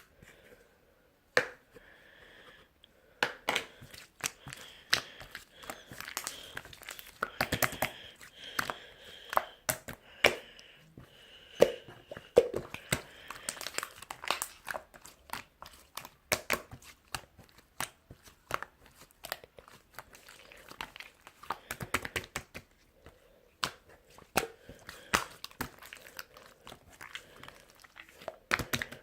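Crinkling and rustling handling noise close to the microphone, with many irregular sharp clicks and taps.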